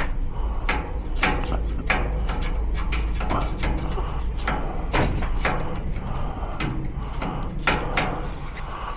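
Irregular metallic clicks and knocks of tools working on a garage door lock cylinder, trying to crack off the cam at its back so the cylinder will come out, over a steady low hum.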